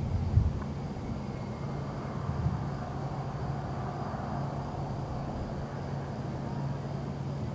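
Distant fireworks thumping: a dull boom near the start and another about two and a half seconds in, over a steady low hum and a rushing noise that swells and fades midway.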